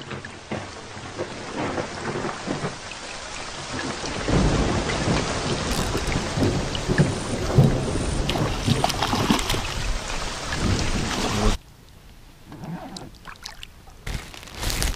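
Rain falling on the lake and on the aluminium boat, a dense pattering with many close, sharp drop hits. A heavy low rumble builds up about four seconds in. Both drop off suddenly about three-quarters of the way through, leaving lighter rain.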